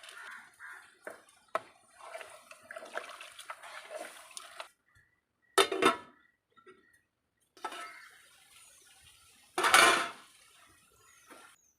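Eating sounds from a plate of white rice and fish curry: wet squishing and scraping of the food, with clinks of the plate, and two louder sharp sounds about halfway through and near the end.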